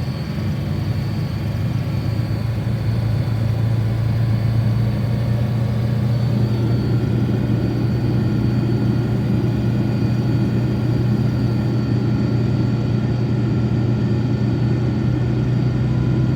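Dodge Ram 2500's Cummins straight-six turbodiesel running just after a cold start at about −20°, its revs held up to warm it. The hum grows louder over the first few seconds, then runs steady.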